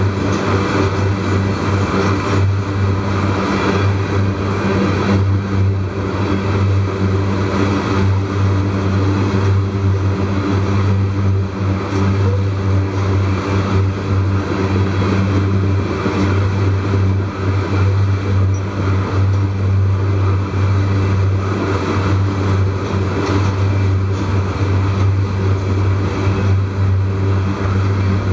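Loaded coal hopper cars of a long freight train rolling past at steady speed: a continuous low rumble of steel wheels on rail, with no distinct clicks or beats.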